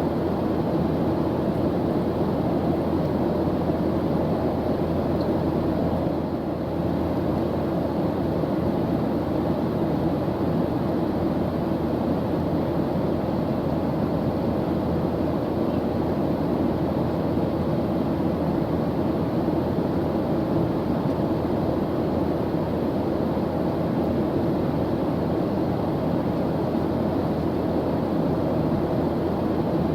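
Airplane engine noise in flight: a steady low rumble with no change in pitch or loudness.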